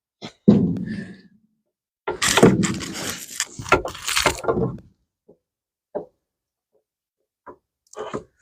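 Hand work on car parts: a single thunk, then about three seconds of clattering and scraping, followed by a few light knocks.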